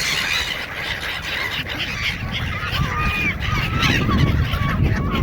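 A flock of gulls calling over one another: many short, high, overlapping cries.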